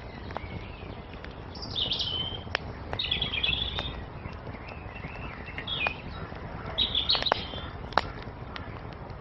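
Songbirds chirping in four short bursts of high twittering, over a wood fire crackling with scattered sharp pops and a low steady rush of flame. A loud pop stands out about eight seconds in.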